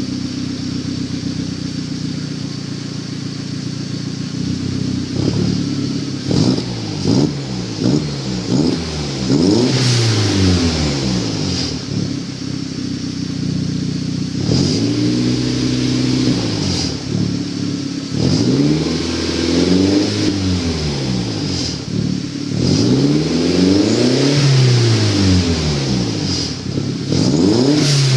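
Volkswagen New Beetle 1.8T's turbocharged four-cylinder engine through a 3-inch turbo-back exhaust with a Cherry Bomb muffler. It idles steadily for about five seconds, then is revved repeatedly: four quick blips, then several longer revs that climb and fall back.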